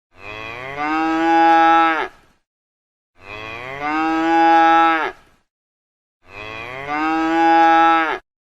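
A cow mooing three times, the same two-second call repeated identically with short silences between.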